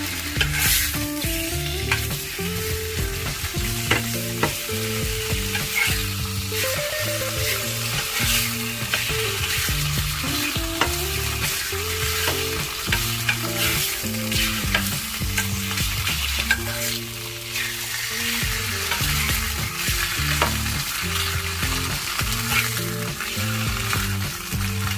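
Food sizzling and frying in a hot pan while a utensil stirs and scrapes it, with frequent sharp clicks, over background music.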